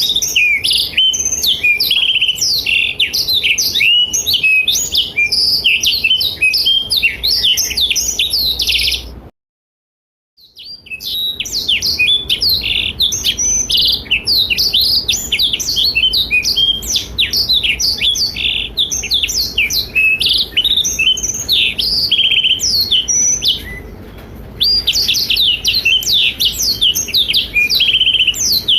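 Blackthroat (black-throated canary) singing a fast, continuous song of high, rapid twittering and warbling notes. The song breaks off into about a second of silence some nine seconds in, then resumes, and goes quieter for a moment near the end.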